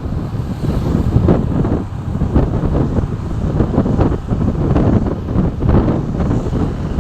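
Wind buffeting the microphone over the steady low rumble of a running vehicle, with no clear engine note or pitch change.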